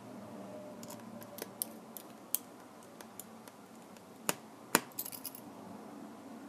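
Sharp small clicks and taps of hard parts and tools being handled during the Kindle Fire repair, with two louder snaps about four seconds in and a quick flurry of clicks right after.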